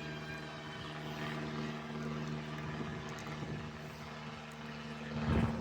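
Banner-towing propeller airplane droning overhead, a steady engine tone that holds without a break. A brief loud thump or rustle comes near the end.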